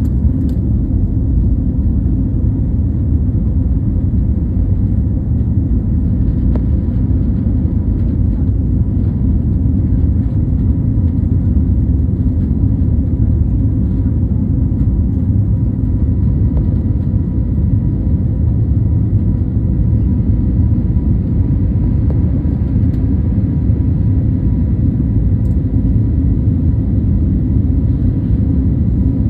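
Airliner at takeoff: a loud, steady low rumble of jet engines and airflow.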